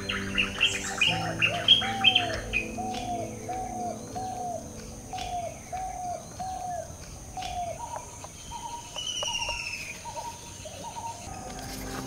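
Garden birds calling: a burst of rapid, overlapping chirps at first, then one bird's short, low, hooked calls repeated about twice a second, and a descending whistle near the end.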